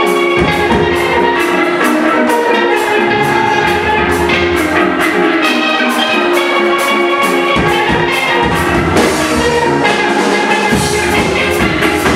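Steel-drum band playing: many steel pans striking a fast melody, with drums, and low bass notes that drop out and come back several times.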